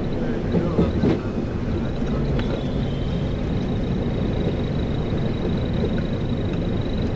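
Airliner landing rollout heard from the cockpit: a steady low rumble of the aircraft decelerating down the runway, with a thin steady high tone above it. A brief louder bump comes about a second in.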